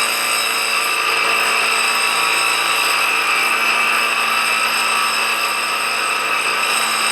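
Belt grinder running steadily, with a constant motor whine and a grinding hiss, as the jaw of a steel open-end wrench is ground wider to fit a larger nut.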